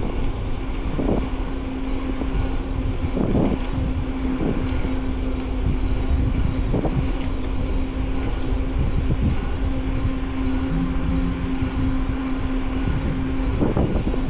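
Riding a bicycle: tyre rumble and wind on a handlebar-mounted camera's microphone, with a steady hum and a few light knocks from the bike over the path.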